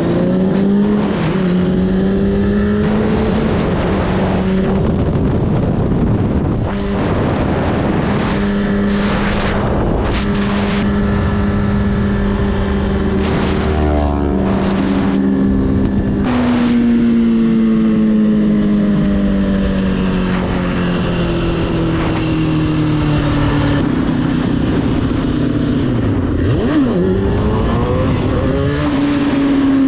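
Motorcycle engine running under way, its pitch rising and falling with the throttle and jumping at a few gear changes, with bursts of wind rush.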